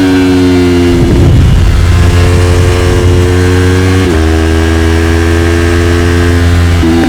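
Yamaha YZF-R3's parallel-twin engine with an Arrow slip-on exhaust, running hard at high revs under load. Its pitch climbs slowly and breaks briefly about a second in, about four seconds in and near the end, like quick gear changes.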